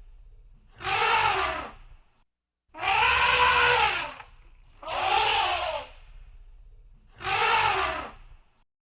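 Elephant trumpeting: four calls of about a second each, roughly two seconds apart, each rising and then falling in pitch.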